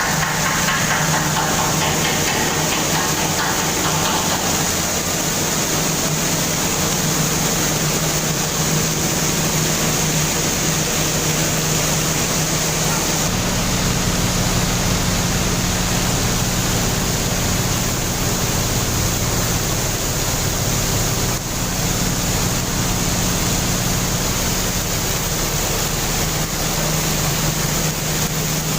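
Steady drone of a ferry's machinery with a constant rushing noise over it; the low hum shifts slightly about 13 seconds in.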